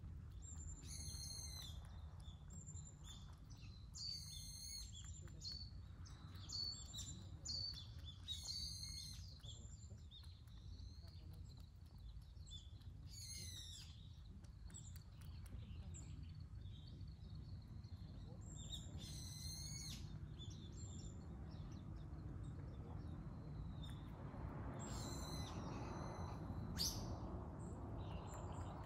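Small birds calling: short bursts of rapid, high chirps every few seconds, over a steady low background noise.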